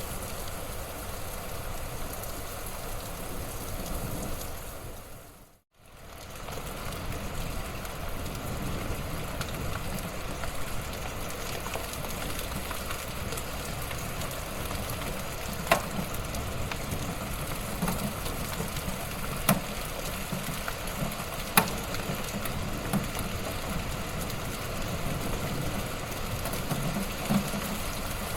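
Wood fire in a fireplace crackling steadily, with a few sharp pops in the second half. The sound fades out briefly about six seconds in and comes straight back.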